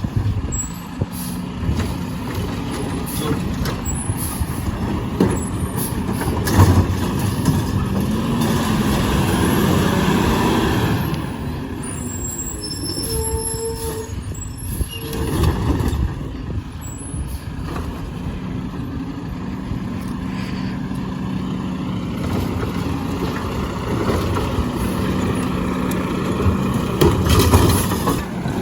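Garbage truck engine running steadily, with a long hiss about eight seconds in and a short beep about thirteen seconds in.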